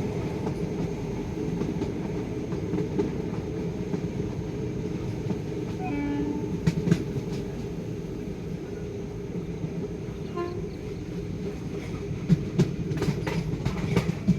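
Intercity express train running on the track with a steady rumble and wheel clatter over the rail joints, the clicks and thumps growing stronger near the end.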